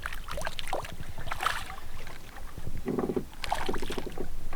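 Wind buffeting the microphone over water sloshing around a small boat, with a few short swells of splashing or rustling.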